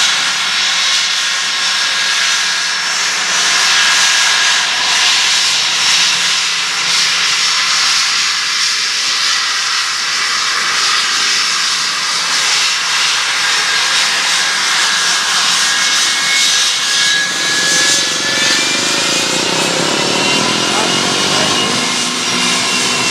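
Boeing 717's Rolls-Royce BR715 turbofan engines running loud at high thrust, a steady rushing jet noise. A whine rises slightly in pitch over the last several seconds.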